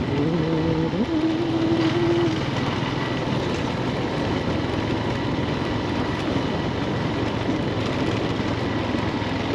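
Motorbike engine running while riding, under a steady rush of wind and road noise. A pitched engine note stands out for the first two seconds or so, steps up in pitch about a second in, then sinks back into the rush.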